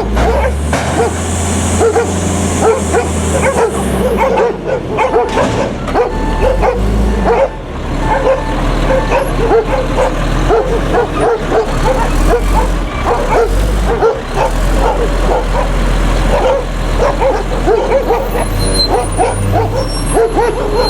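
A dog barking rapidly and almost without pause, over the steady low running of a garbage truck's engine.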